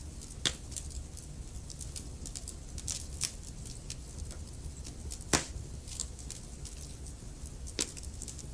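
Wood fire crackling in a fireplace: irregular sharp pops and snaps of burning logs over a low steady rumble, the loudest pop about five seconds in.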